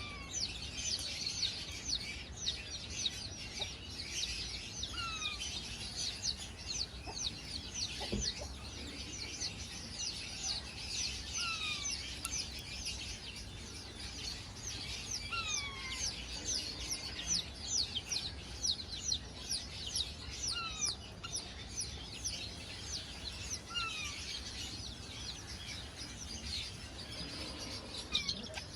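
Parrots chirping in a flock: a dense, unbroken run of short, high, falling chirps, with a lower falling whistle every few seconds.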